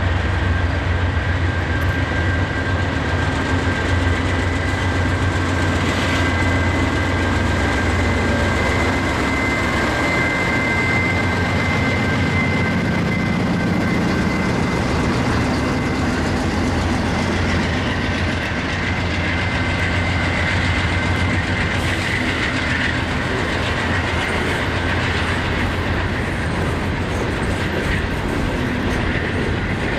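Train rolling past at close range: a steady rumble of wheels on rail, with a thin steady high tone above it that is clearest in the first half.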